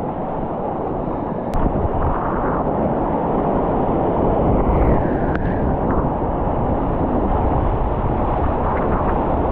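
Whitewater rushing through a creek rapid: a steady, loud wash of water noise.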